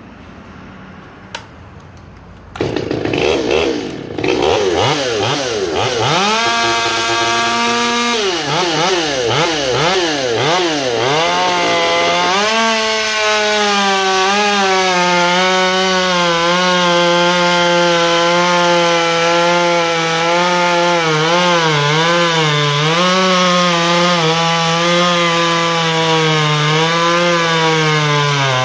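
A modified Stihl MS 201T top-handle two-stroke chainsaw starts up a few seconds in and is revved up and down. It is then held at high revs cutting through knotty dry fir, its pitch dipping again and again under load, before the revs fall away near the end.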